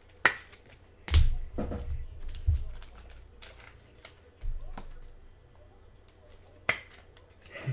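Scattered sharp clicks and taps with a few dull low thumps, as trading cards and their packaging are handled on a table.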